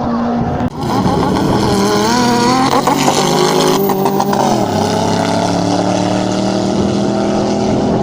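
Car engine revving hard under acceleration, its pitch climbing, then dropping about four and a half seconds in and running on at a steady pitch.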